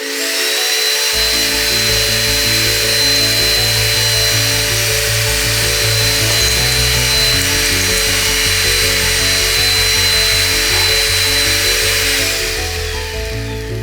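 Ambiano cordless stick vacuum running, a steady rush of suction with a high motor whine, fading out near the end. Background music plays underneath.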